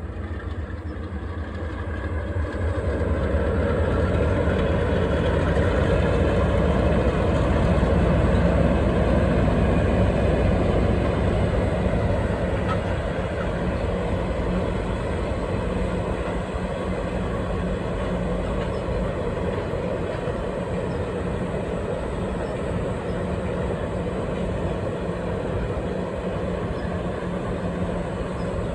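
Train running along the track, building over the first few seconds to its loudest around eight seconds in, then continuing steadily a little quieter.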